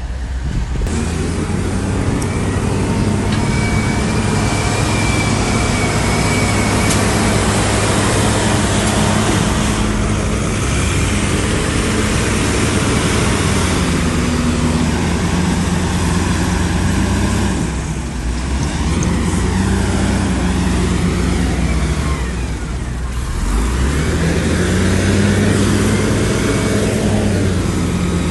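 Heavy diesel earthmoving machine working, its engine running continuously with the pitch rising and falling as the load changes, dipping briefly twice in the second half.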